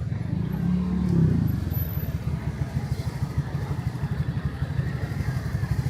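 Motorbike engine running close by with a fast, low, even throb, its pitch briefly rising and falling about a second in.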